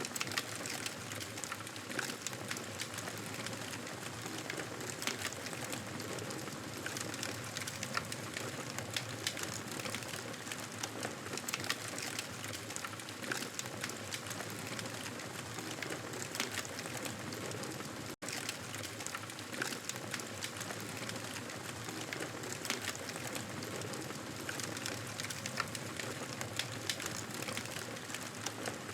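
Steady, dense crackling and pattering ambience of many small clicks over an even hiss, with a brief dropout about 18 seconds in.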